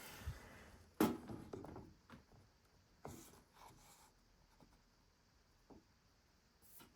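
Objects handled on a tabletop: a sharp knock about a second in followed by a brief rustle, a softer knock near three seconds, then a few faint ticks.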